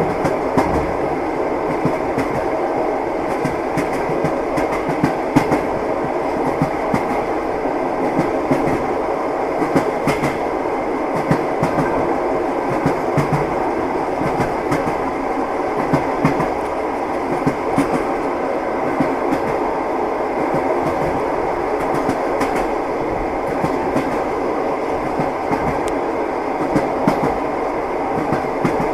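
Train wheels knocking over the rail joints: a steady running rumble with repeated sharp knocks every second or two.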